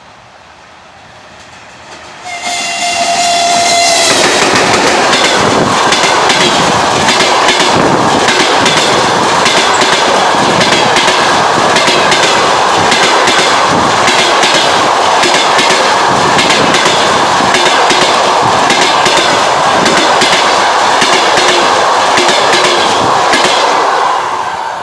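An EP1M electric locomotive sounds its horn once, briefly, about two seconds in. It then passes close by at speed with its passenger coaches, wheels clattering over the rail joints in a loud, steady clickety-clack that drops away sharply near the end.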